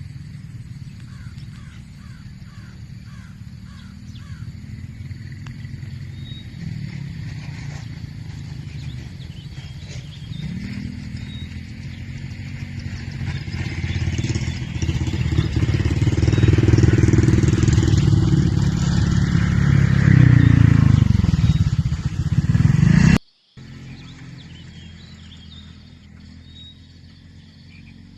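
A motorbike engine approaching and passing close by, getting steadily louder and then dropping in pitch as it goes. It cuts off suddenly near the end, leaving quieter rural ambience with faint bird chirps.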